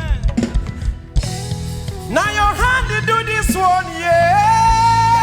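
Church worship music: a band with bass and drums playing, with singing coming in about two seconds in and one long held note near the end.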